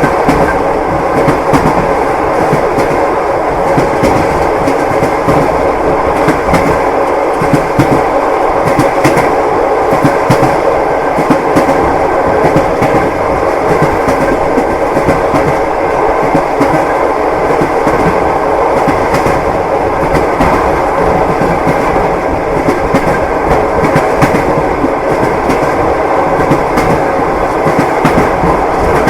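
Train wheels clattering over the rails: a steady rolling rumble with a running stream of irregular clicks and knocks from the rail joints.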